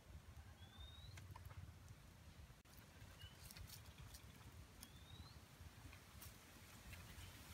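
Faint outdoor quiet in which a bird repeats a short rising whistle about every two seconds, with a few faint clicks.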